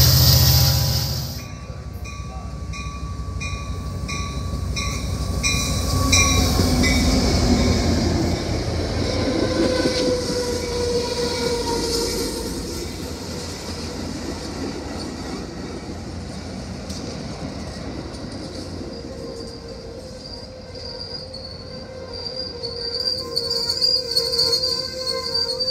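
Train rolling past on the track: a loud rush for the first second or so, then the wheels clacking over rail joints about twice a second, giving way to thin steady wheel squeal that grows louder near the end.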